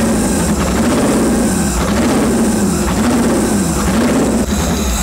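Chevy LS1 V8 running loud, just revived after years of storage, its speed surging up and down about once a second. The uneven running points to fuel injectors that were stuck and have only just been hammered free; the owner calls it a little stumbly and in need of tuning.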